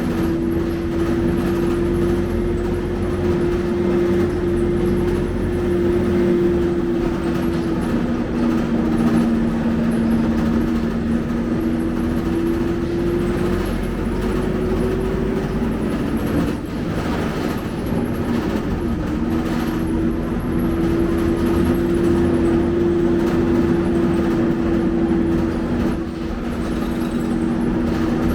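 Scania K270UB city bus running, with a steady drivetrain whine that rises in pitch around the middle, breaks off for a few seconds, then settles back.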